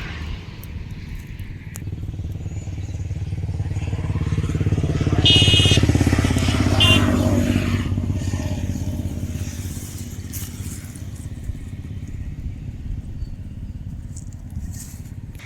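A motor vehicle, likely a motorcycle, drives past, its engine drone growing louder and then fading. Two short, high beeps sound at the loudest point, a little over a second apart.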